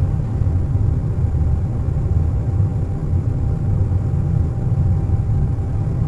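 Steady, deep rumble of an airliner cabin at cruise, with a faint constant tone above the hum and no distinct events.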